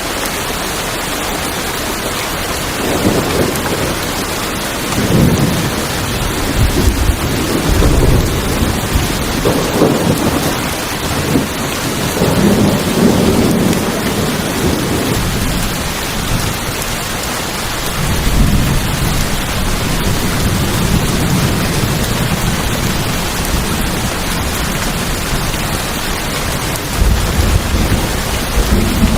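Steady rain falling on tin roofs, with thunder rumbling in long low swells from a few seconds in, again past the middle, and once more briefly near the end.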